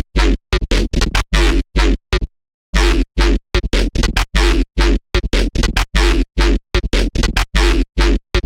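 Serum software synthesizer patch built from an image-derived wavetable, played as a fast, uneven run of short, choppy notes, roughly three a second, each cut off sharply to silence. The notes are gritty and noisy across the whole range, with a deep sub-bass underneath.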